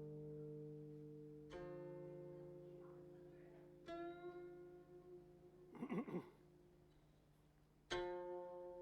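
Background music of a plucked zither: single notes a few seconds apart, each ringing out and fading slowly, with a brief flurry of notes just before six seconds in.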